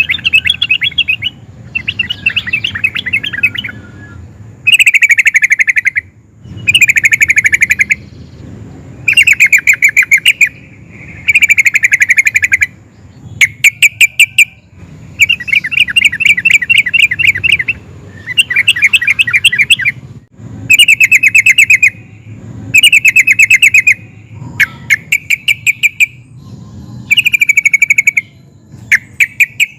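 Yellow-vented bulbul (trucukan) singing loud, repeated phrases, roughly one every two seconds. Each phrase is a quick, bubbling run of rapid notes.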